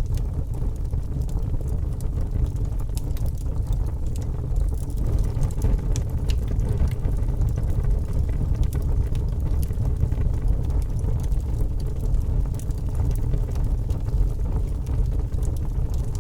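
Wood fire burning in a fireplace: a steady low rumble of flames with frequent small crackles and pops, which come thicker from about five seconds in.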